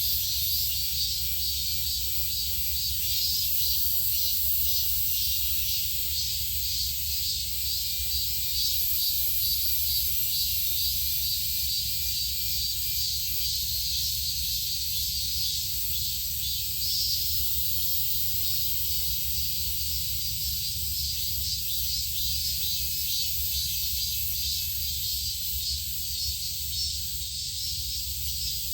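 Steady, high-pitched insect chorus with a fine rapid pulsing, over a low steady rumble.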